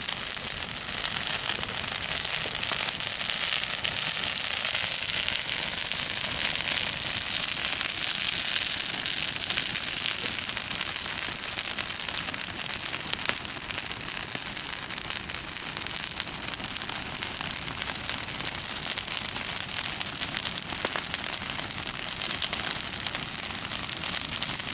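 Large bonfire burning steadily, a continuous dense crackle of many small pops over a high hiss.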